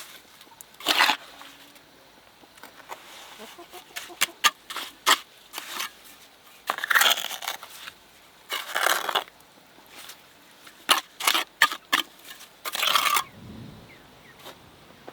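An irregular series of short scraping and rustling noises, each under a second, mixed with sharp knocks and clicks.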